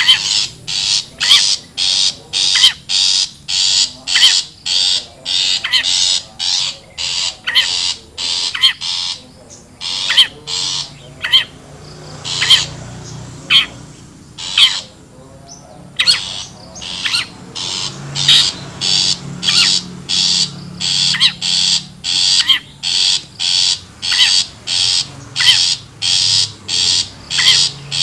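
Long-tailed shrike (cendet) giving harsh, scratchy calls as a lure call, repeated about twice a second with a gap of a few seconds near the middle.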